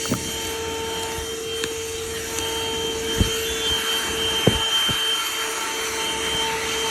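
Handheld corded car vacuum running steadily with a high whine and suction hiss. Two sharp knocks come midway through.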